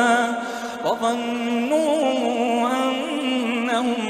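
Male voice in melodic Quran recitation (tajwid), holding long drawn-out notes with wavering melodic ornaments through a stretched syllable of the verse.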